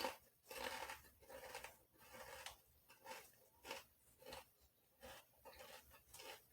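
Faint chewing of a sub sandwich: soft, wet mouth sounds in short bursts about every half second to a second.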